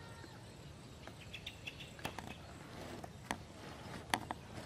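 Faint outdoor background with a few short high chirps, like small birds or insects, about a second in, and several sharp light clicks or taps later on.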